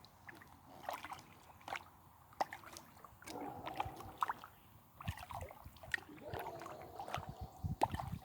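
Kayak paddling: water splashing, sloshing and gurgling from the paddle and hull, with irregular sharp drips and splashes.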